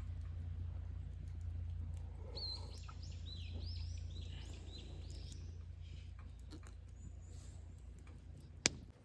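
A bird calling in a quick series of short, curving high chirps for a couple of seconds, over a steady low rumble, with one sharp click near the end.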